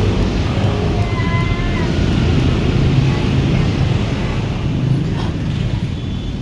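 A vehicle engine running steadily, with a brief faint whistle about a second in.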